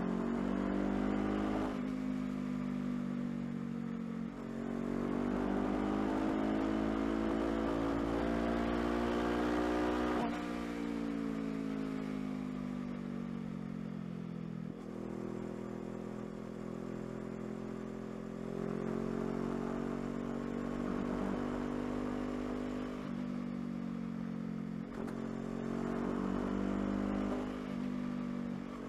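2016 Honda CBR500R's parallel-twin engine under way: its pitch climbs as the bike accelerates and drops sharply at each upshift, falls away as it slows, holds steady for a while, and climbs again near the end.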